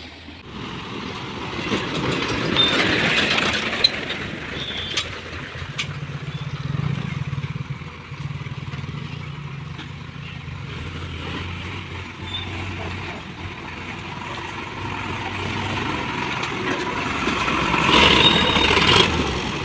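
Heavy diesel machinery running as an excavator loads a tractor trolley. A steady low engine hum fills the middle, with louder, noisier stretches about two seconds in and again near the end.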